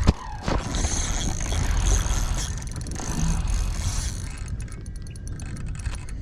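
Fishing reel mechanism clicking and whirring, with a run of rapid fine clicks near the end, over a steady low rumble.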